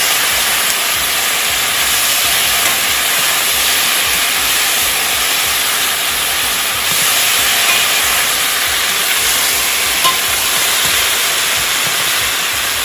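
Potato cubes frying in hot lard in a cast-iron kazan, a steady loud sizzle, while a metal skimmer stirs and turns them, with a couple of light scrapes or clicks against the pot.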